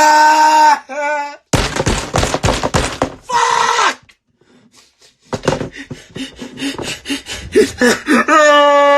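A man wailing in long, held, high cries at the start and again near the end. Between them come a couple of seconds of rapid thuds and knocks, a short pause, then more scattered knocks.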